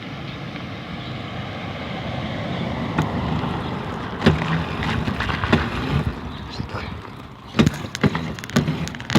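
Mini dirt bike engine running while being ridden, growing louder over the first few seconds. A string of sharp knocks and rattles comes in the last couple of seconds.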